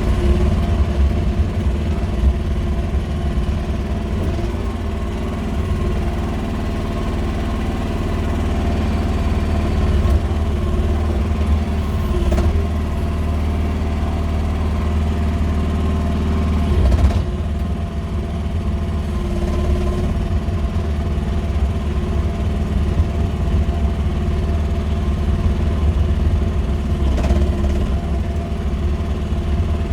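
QH13R mini excavator's engine running steadily while the machine works, with a few short knocks about twelve, seventeen and twenty-seven seconds in.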